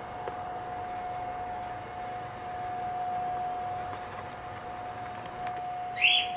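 A cockatiel gives one short, shrill chirp near the end, over a steady high-pitched hum.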